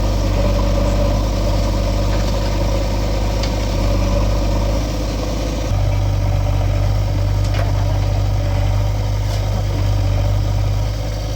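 Heavy diesel engine running steadily with a low, even hum; the note shifts slightly about six seconds in.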